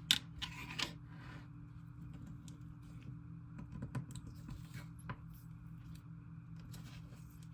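Hands playing with slime: a sharp click just after the start and a few short crackly smears in the first second and a half, then scattered faint clicks, over a steady low hum.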